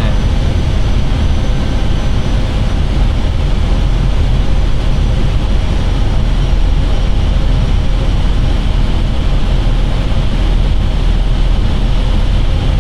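Steady airflow and engine noise inside an Airbus airliner's cockpit on short final approach, a constant rush with a strong low rumble.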